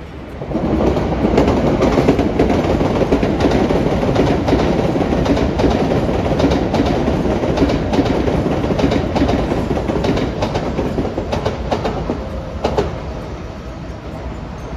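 A train running past close by: a loud rolling rumble with repeated clicks of the wheels over rail joints, swelling suddenly under a second in and easing off near the end.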